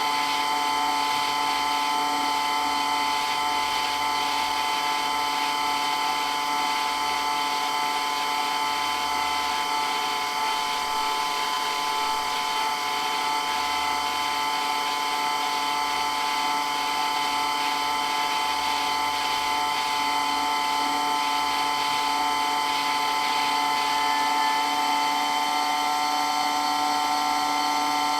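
Water pump running continuously, very loud, with a steady whine that holds its pitch throughout.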